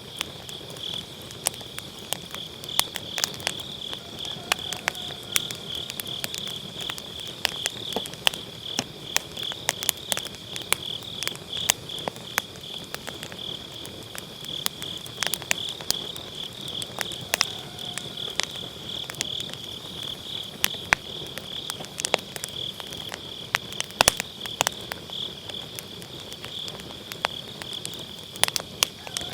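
Firewood burning in a round fire pit, crackling with many sharp pops scattered throughout. Behind it, autumn grass insects keep up a steady, high, pulsing chirr.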